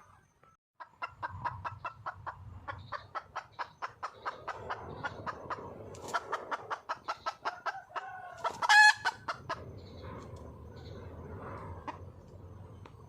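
Red junglefowl hen clucking in a rapid run of short notes, about five or six a second, with one loud drawn-out squawk just past the middle: a wild hen's call for a male. A low rumble lies underneath.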